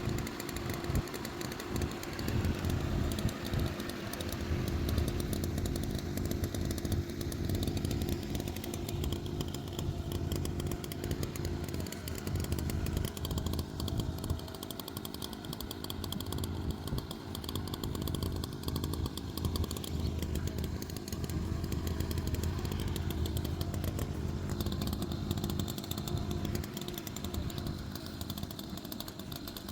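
Chainsaw running steadily at a fairly even level, bucking logs.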